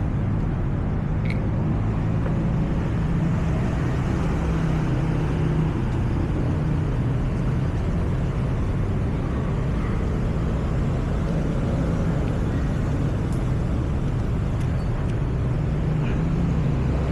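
A steady low rumble of a motor vehicle's engine running, unchanging in level.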